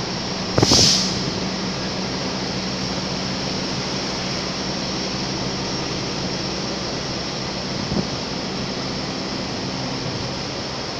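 Train noise at a railway station: a steady rumble and low hum, with one short, loud hiss less than a second in.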